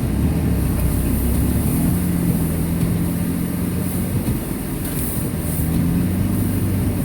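2002 Subaru Impreza wagon's EJ25 flat-four engine running steadily as the car drives, its low hum shifting slightly in pitch, with a steady hiss of road noise over it.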